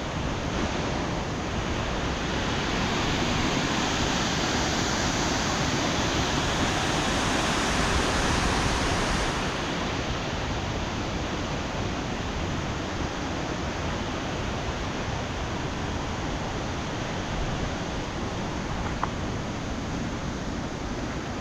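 Steady rushing of a waterfall mixed with heavy rain, swelling a little for several seconds and then easing slightly.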